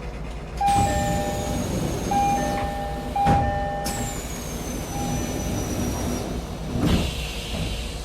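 Inside an electric commuter train: a steady low rumble broken by three sharp knocks. Short steady tones switch on and off, and two high whines fall slowly in pitch.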